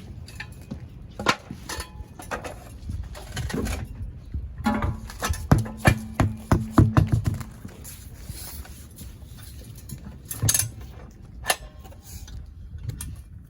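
Metal tools clanking and knocking against a car's front suspension parts, in scattered single knocks with a cluster of quick strikes about five seconds in, alongside a short steady hum.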